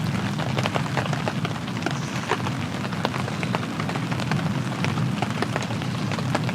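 Steady rain falling, with many individual drops striking nearby as sharp ticks at irregular intervals over a continuous low hiss.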